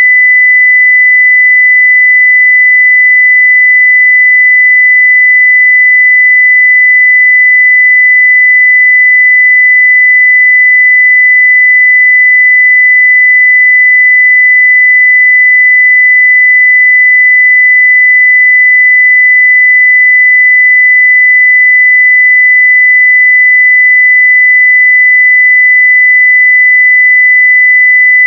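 A pure 2 kHz sine-wave test tone at full level (0 dBFS), held steady without any change.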